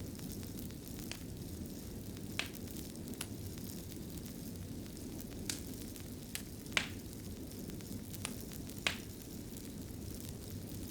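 Fireplace fire crackling: a steady low rumble of burning, with about eight sharp pops scattered through it, the loudest a little past the middle.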